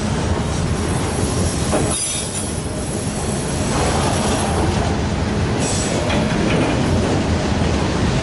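Railroad cars rolling past on steel rails, wheels rumbling and clacking, with brief high-pitched wheel squeals about two seconds in and again near six seconds.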